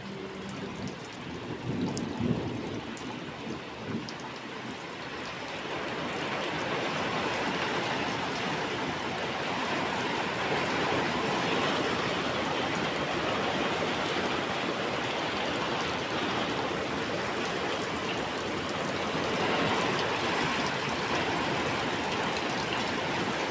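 Heavy rain falling in a steady downpour that grows denser about six seconds in, with a few low thumps about two seconds in.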